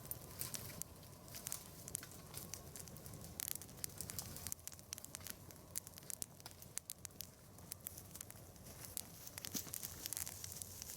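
Brushwood burning in a nodya log fire, crackling with many irregular sharp pops and snaps.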